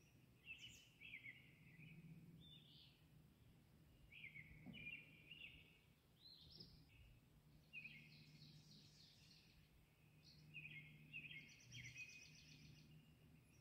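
Faint birdsong: small birds chirping and twittering in short repeated phrases, over a low steady hum.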